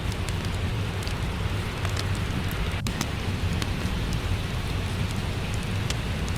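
Steady rain with a low rumble underneath, mixed with scattered small, sharp crackles of a wood fire in a fireplace.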